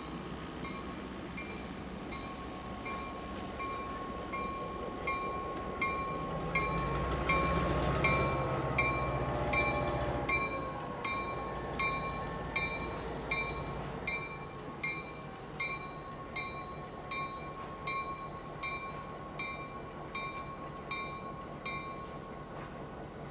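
Diesel switcher and passenger cars rolling slowly past, loudest about eight seconds in, with a bell ringing steadily about twice a second.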